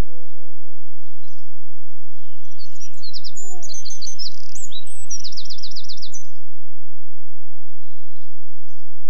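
Small birds chirping and trilling in quick runs of high notes, busiest in the middle few seconds, as the show's outdoor ambience. A held musical tone fades out in the first second.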